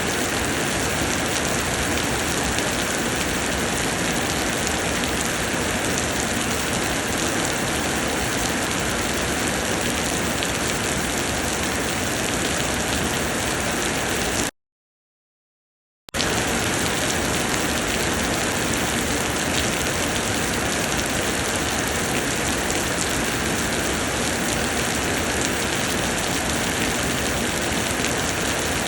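Summer rain pouring steadily, a dense, even hiss of falling drops. About halfway through, the sound drops out to dead silence for about a second and a half, then resumes as before.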